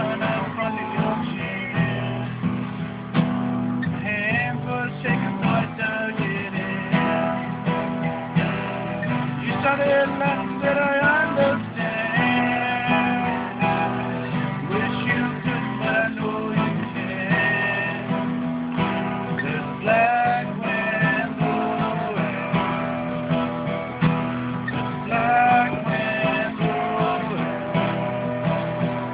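Acoustic guitar strummed steadily, with a recorder playing a wavering melody line over it.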